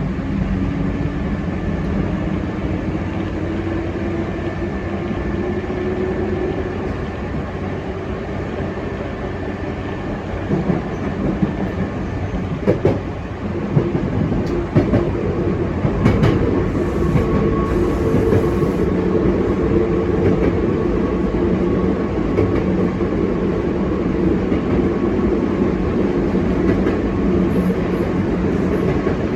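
Hankyu electric commuter train running on the Imazu Line. Its motor whine rises in pitch as it accelerates. A series of sharp clacks over rail joints and points comes about halfway through, then the train runs on at a steady speed with an even whine and rumble.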